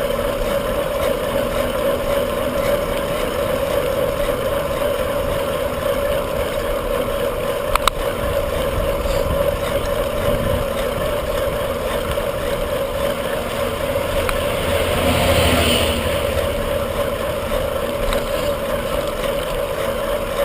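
Steady wind and road noise from riding a bicycle through city streets, with a single sharp click about 8 seconds in. The noise swells briefly about three-quarters of the way through.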